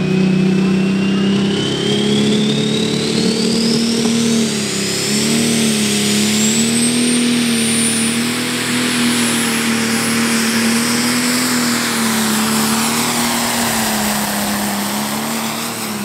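Pro Stock pulling tractor's turbocharged diesel engine running hard under load. A turbo whistle rises steadily in pitch over the first half and then holds high, while the engine note stays steady with a slight waver.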